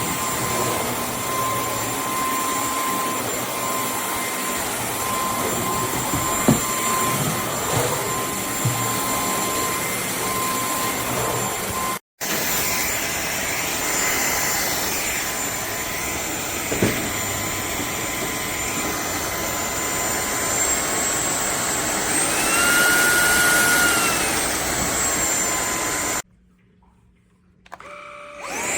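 KCLASO cordless stick vacuum running with a steady motor whine, with a few light knocks. Past the middle, its whine glides up in pitch and gets louder for a few seconds, then settles back. Near the end it switches off and then starts up again.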